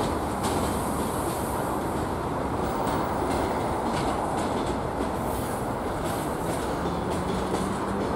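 Freight train wagons rolling past: a steady rumble of steel wheels on rail, with faint irregular clicks from the wheels over the rail joints.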